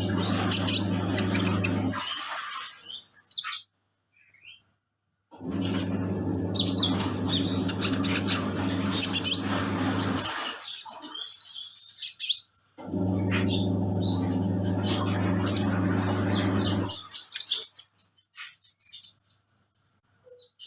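Washing machine motor humming in bursts of a few seconds, stopping and starting again as in an agitating wash cycle. A small songbird chirps repeatedly over it and in the pauses.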